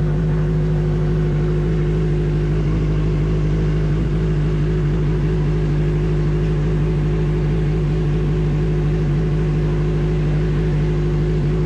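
Big motorcycle engine idling steadily while warming up from a cold start, at an even pitch with no revving.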